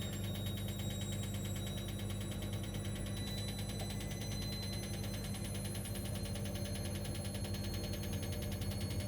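Washing machine motor running steadily, with a hum, a fast even pulsing and a faint high whine that creeps slightly up in pitch.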